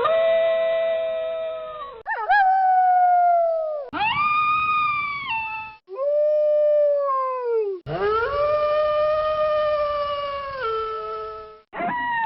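Wolves howling: about six long howls one after another, each one to four seconds, most sliding down in pitch at the end, with abrupt cuts between them.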